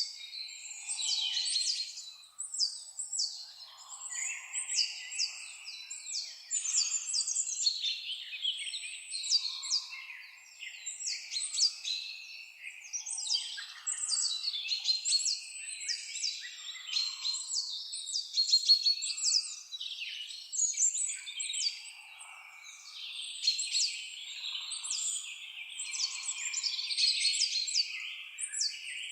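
Several songbirds chirping and singing at once, a dense run of quick, high, downsweeping notes that overlap continuously.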